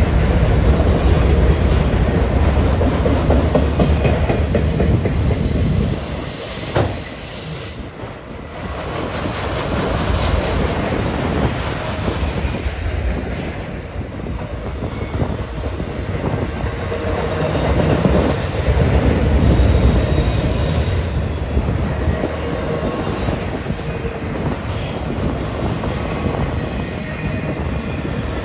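Freight train of autorack cars rolling past close by: a steady loud rumble and clatter of steel wheels on the rails, with high-pitched wheel squeal coming and going. The rumble dips briefly about seven seconds in and then builds again.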